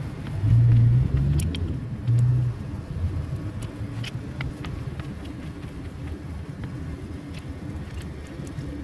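Scania truck diesel engine running with a steady low rumble, surging louder twice in the first two and a half seconds. Scattered sharp clicks are heard over it.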